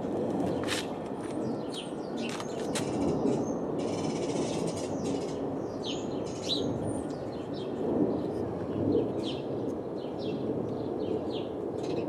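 Small birds chirping over and over in short, quick falling notes, with a brief rapid trill a few seconds in, over steady low background noise.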